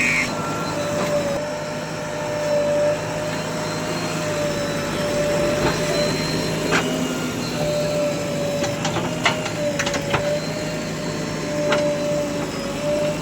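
Diesel earthmoving machinery running steadily, with a continuous whine and several sharp metallic knocks.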